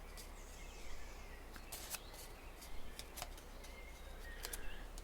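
Origami paper being shaped by hand: a few faint scattered crinkles and ticks as a curved mountain fold is pressed in.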